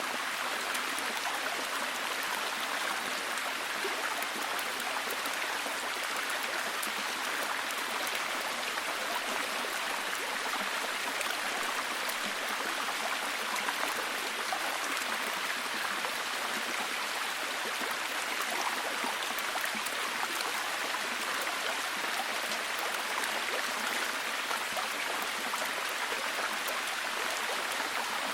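Steady, heavy rain: an even hiss of many drops with fine patters, unchanging throughout.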